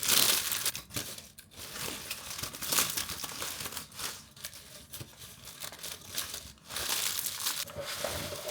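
Packaging being handled and crumpled, with irregular crinkling rustles that pause briefly a couple of times.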